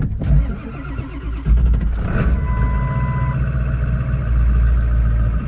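A 1999 Ford 7.3 Powerstroke turbo-diesel V8 is cranked cold at about 25–30°F after its glow plugs have done their wait cycle. It fires about a second and a half in and settles into a steady cold idle. A short electronic beep sounds a moment after it catches.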